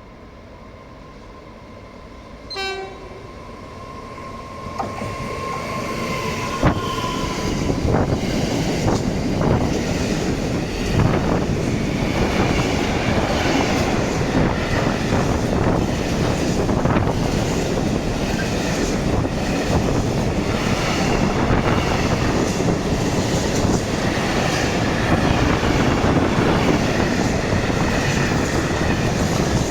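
Freight train coming through the station: a short horn toot about two and a half seconds in, then the noise of the locomotive and wagons rises and holds loud, with rapid wheel clicks over the rail joints.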